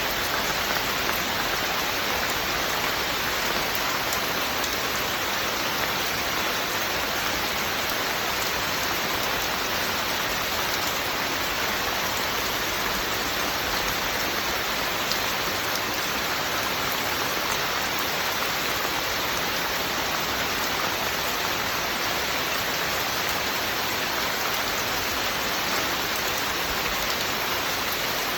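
Steady, even rain falling on a hard surface, a constant hiss with no distinct drips or thunder.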